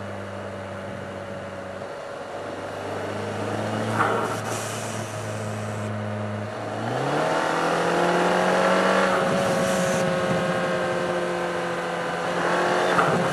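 Mercedes CLA250's turbocharged 2.0-litre four-cylinder engine under way, running steadily, then pulling harder with rising pitch about seven seconds in. Short hissing bursts at about four seconds and near the end come as the aftermarket Forge blow-off valve vents turbo boost on lift-off.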